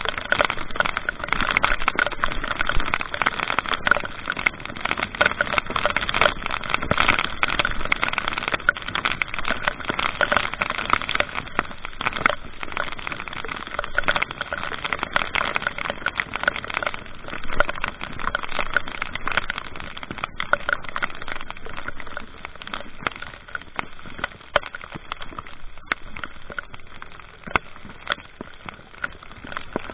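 Steady rushing road and wind noise from travelling on a vehicle in rain, with many sharp crackling clicks throughout, a little louder in the first half.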